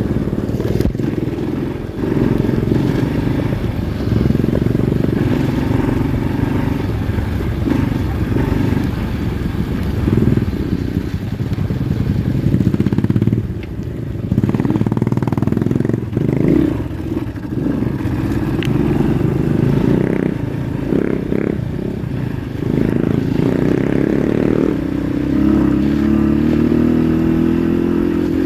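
Pit bike engine running as it is ridden, the revs rising and falling over and over, with a steady climb in pitch near the end.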